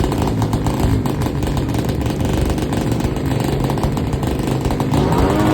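200cc racing motorcycle engine running at a steady idle, its exhaust pulses evenly spaced, then rising briefly in pitch as the throttle is blipped near the end.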